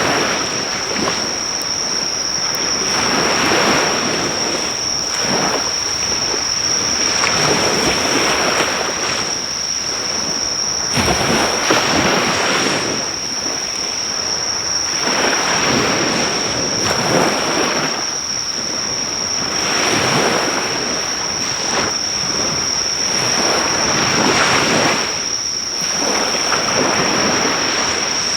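Sea waves breaking on the shore in swells about every four seconds, under a steady high-pitched insect trill that never lets up. A few faint crackles of a driftwood fire show through.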